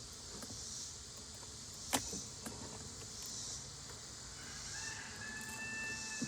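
Bees humming around an open hive under a high insect chorus that swells and fades every second or two, with one sharp knock about two seconds in. A thin steady tone sounds briefly near the end.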